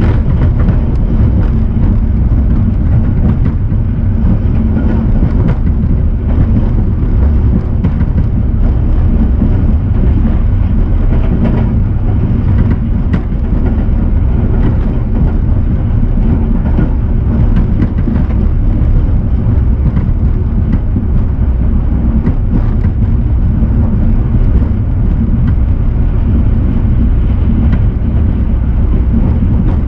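Passenger train running along the line: a steady, loud rumble of wheels on rails, with light clicking over it.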